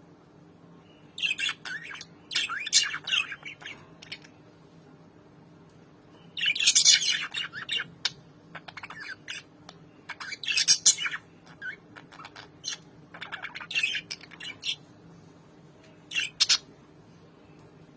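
Albino lovebirds calling back and forth in short bouts of shrill chirps and squawks, with quiet pauses of a second or two between the bouts.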